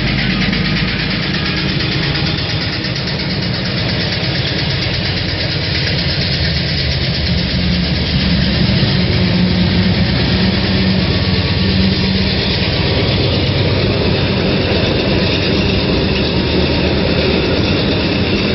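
GE diesel-electric freight locomotives running steadily as the train passes: a low, heavy engine hum with broad rumbling noise.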